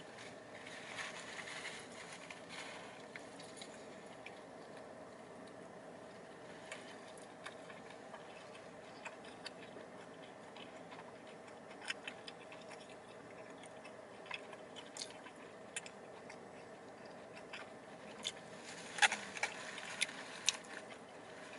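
A person chewing a mouthful of a blackened chicken sandwich on a soft bun: faint, scattered wet clicks and crunches, a few louder ones near the end, over a low steady hum.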